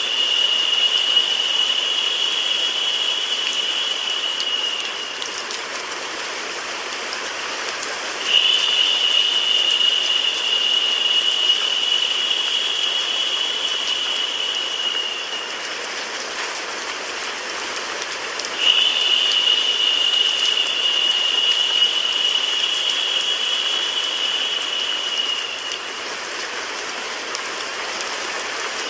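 Steady rain-like white-noise hiss. A brighter, higher hiss comes in on top for about seven seconds at a time, then drops out for about three, repeating about every ten seconds.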